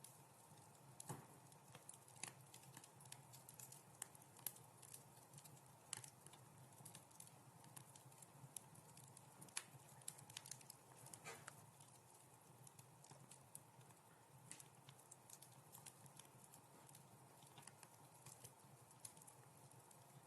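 Wood fire crackling in a fireplace: faint, irregular pops and snaps over a steady low background.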